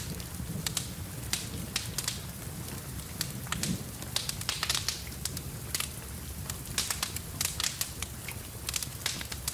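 Wood fire in a fireplace crackling, with many irregular sharp pops and snaps over a soft steady hiss and low rumble of the flames.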